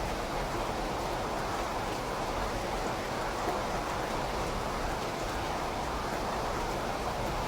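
Steady rain falling, an even continuous hiss with no separate drops or thunder standing out.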